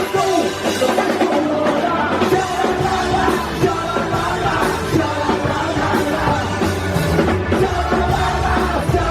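Punk rock band playing live, with a drum kit and a singer's voice over the music.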